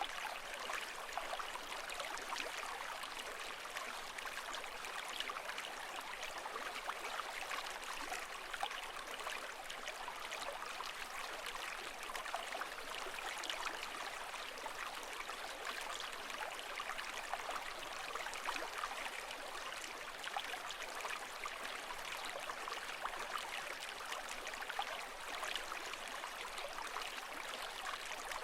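Steady running water: an even wash of splashing and trickling with many small droplet ticks, with no rise and fall of waves.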